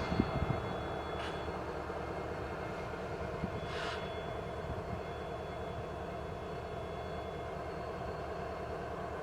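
Diesel locomotive engines idling with a steady low rumble, with two short hisses about one and four seconds in.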